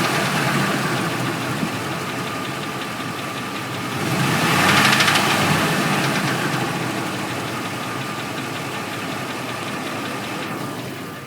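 A 2004 Ford F-150's engine running with a knocking noise. It grows louder for a couple of seconds about four seconds in, then settles, and fades near the end.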